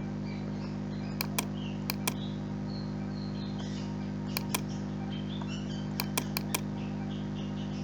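Computer mouse clicking in quick pairs, double-clicks, five times at irregular intervals, over a steady low electrical hum.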